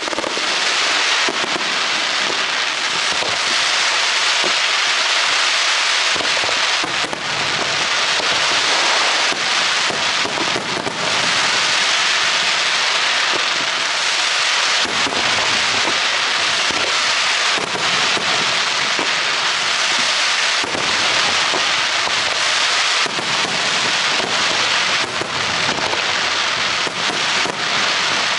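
Fireworks display in a dense, continuous barrage of crackling and popping with no pauses, heavier deeper bangs mixed in during the second half.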